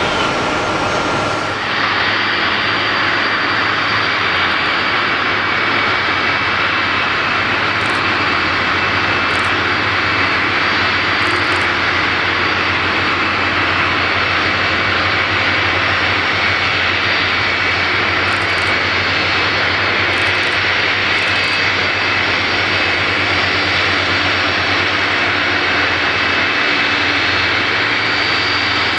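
Boeing 747-400 freighter's jet engines running loudly and steadily, a dense rush with a high whine over it. The sound changes abruptly about two seconds in, then carries on unchanged.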